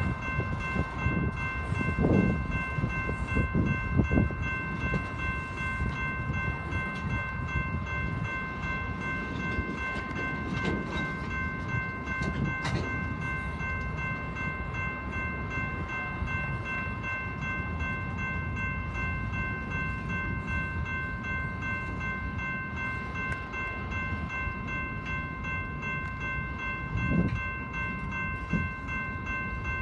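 Freight train of flatcars rolling through a grade crossing: a steady low rumble of wheels on rail, with a few heavier clunks from the wheels over the crossing near the start and near the end. A crossing-signal bell rings steadily over it.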